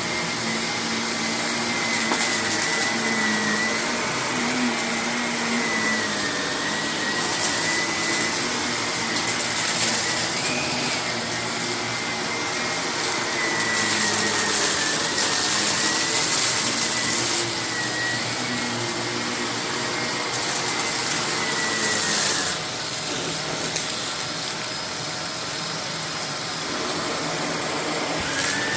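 Vacuum cleaner running over carpet, its motor a steady high whine that wavers slightly, with crackling of hidden grit being sucked up, thickest through the middle stretch. The motor's pitch and loudness drop a little about three quarters of the way through.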